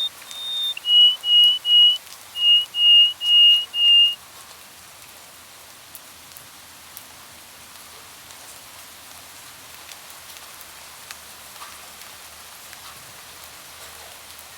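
A songbird whistling clear, steady-pitched notes: two higher notes, then seven slightly lower ones in a group of three and a group of four, stopping about four seconds in. A faint steady hiss with a few small ticks continues after the song stops.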